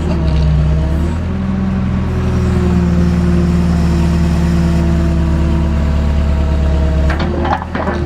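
JCB backhoe's diesel engine running steadily, its pitch stepping up a little about a second in. Near the end the engine note drops and there are a few knocks.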